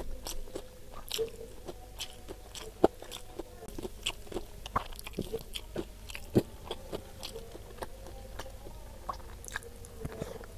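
Close-miked eating sounds: chewing and biting a mouthful of crisp breaded nugget and rice, with many small sharp crunches and mouth clicks at an irregular pace.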